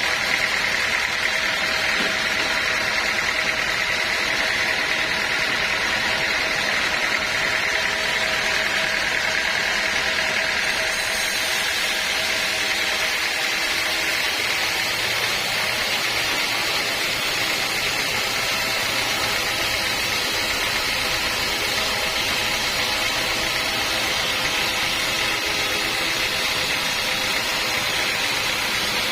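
Sawmill machinery running steadily: a continuous mechanical drone with several steady humming tones. A brighter, higher hiss joins about eleven seconds in.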